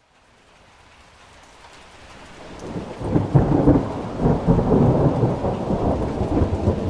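Thunderstorm: rain hiss fading in from silence, then a long roll of thunder rumbling and crackling from about three seconds in, easing off near the end.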